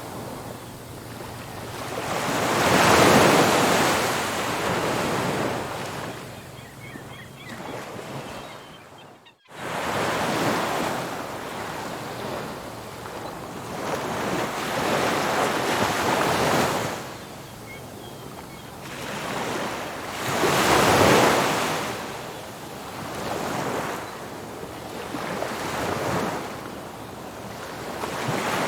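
Ocean surf: waves breaking on a beach, the rush of water swelling and fading every few seconds, with the biggest breakers about three seconds in and again near twenty-one seconds. About nine seconds in, the sound drops out abruptly for an instant and then resumes.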